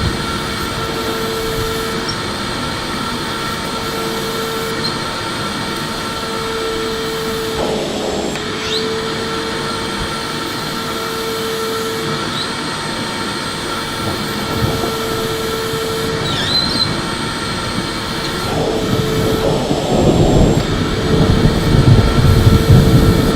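Electric vacuum cleaner running steadily, its motor giving a continuous rush with a steady whine and a humming tone that pulses on and off about every two seconds. From about nineteen seconds in it grows louder and rougher in the low end.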